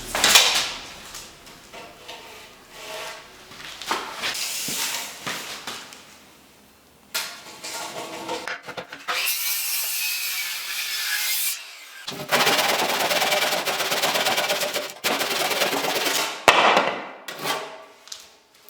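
Construction work on wood and masonry: a sharp knock, then scattered knocks and scraping, and a few seconds of continuous rasping like sawing around the middle and later part.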